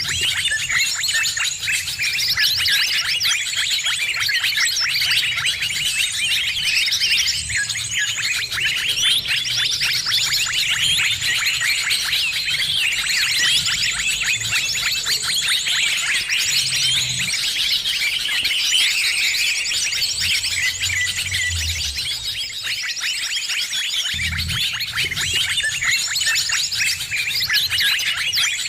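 A dense, unbroken chorus of many small birds chirping and twittering rapidly at high pitch, the kind of noisy mixed-bird lure recording used to draw birds in, with a low rumble coming and going underneath.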